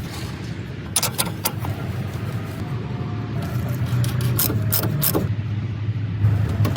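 A van engine idling with a steady low hum. Sharp clicks or knocks come three in quick succession about a second in, and a few more about four to five seconds in.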